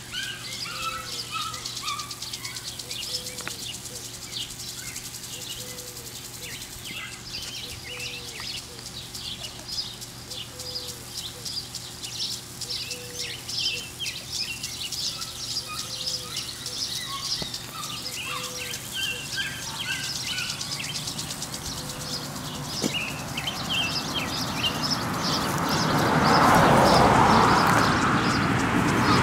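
Wild birds chirping and singing outdoors, many short high chirps, with a low short note repeating about once a second. Over the last few seconds a loud rushing noise swells up.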